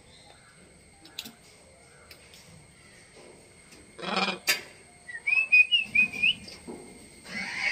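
A short run of quick whistled notes that rise and fall, coming between two brief harsh, squawk-like bursts.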